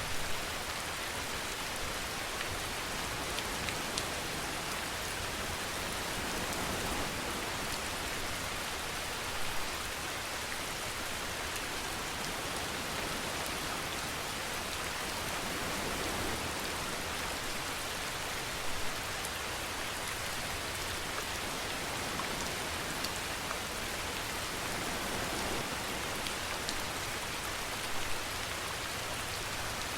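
Steady rainfall: a dense, even hiss with scattered sharp drop ticks, and a few slightly louder patters about every nine seconds.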